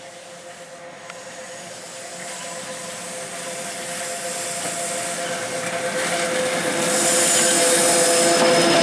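The Train Jaune, an electric metre-gauge train, approaching and growing steadily louder over several seconds, with a steady whine running through it and a rising hiss near the end as it draws close.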